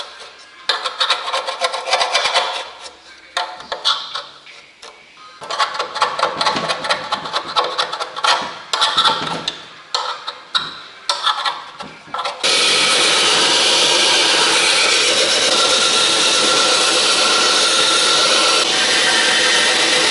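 Old sealant being scraped off a steel oil pan with a sharpened engine valve used as a scraper: irregular rasping strokes. About twelve seconds in, a loud steady noise starts suddenly and runs on.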